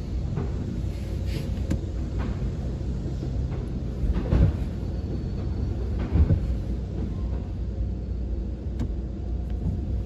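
Steady low rumble heard from inside a car's cabin, with two dull thumps about four and six seconds in.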